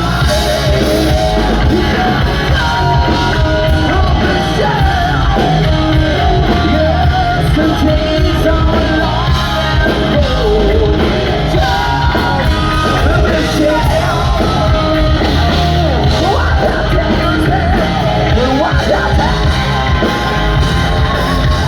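Hard rock band playing loud and live, with a singer's held, wavering notes over the band; the music stops abruptly at the very end.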